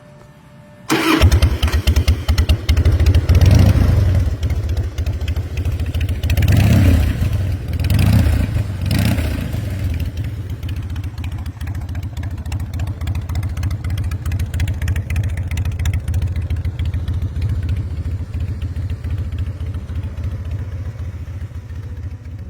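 A 2001 Harley-Davidson Fat Boy's V-twin engine starting about a second in and revved four times. It then settles into a steady idle.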